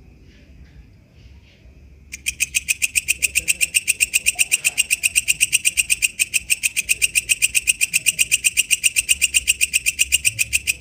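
Walang kecek katydid (bush cricket) calling: after faint scattered calls, a loud, steady run of rapid clicking pulses starts about two seconds in, about eight a second.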